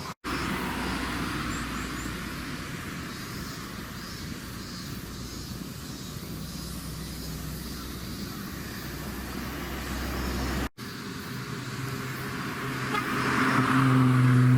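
Car engine sound, broken by two abrupt cuts. In the last few seconds a car engine grows louder as it comes close, holding a steady low note.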